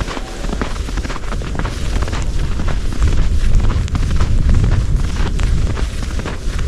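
Wind buffeting the microphone in a snowstorm, a heavy low rumble that grows stronger about halfway through, with footsteps crunching in snow.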